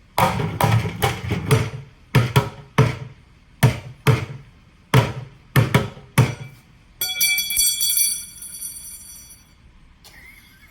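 Drumsticks beating on plastic buckets used as drums: about fifteen hits in quick groups. About seven seconds in comes one ringing metallic tone that fades over a couple of seconds.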